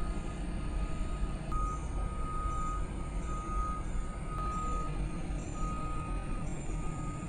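A vehicle's reversing alarm beeping about once a second over a low engine rumble.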